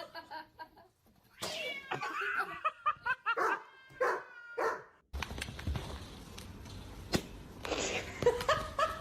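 A cat meowing, a run of several short calls one after another, with more calls near the end over a steady low hum.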